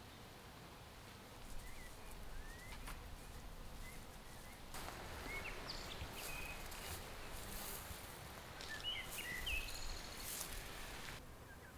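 Small birds chirping in short, scattered calls. From about five seconds in to near the end, a steady hiss with a few clicks runs underneath the calls and then stops abruptly.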